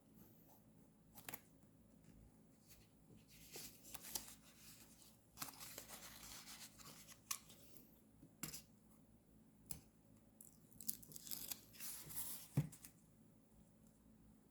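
Faint paper handling during journal decorating: short rustles of paper and sticker sheets, with a few light clicks and taps. The longest rustles come around the middle and again near the end.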